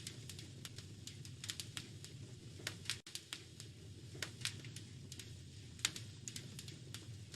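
Wood fire crackling in a fireplace: irregular sharp pops and snaps over a low, steady rumble of burning. The sound drops out very briefly about three seconds in.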